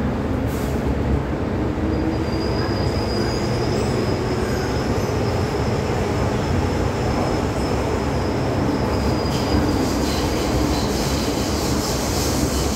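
MTR M-Train metro train running, a steady rumble of wheels on rail, with a thin high wheel squeal from about two seconds in that fades out near ten seconds.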